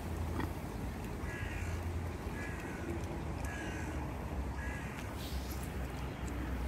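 A bird calling four times, about a second apart, over a steady low rumble.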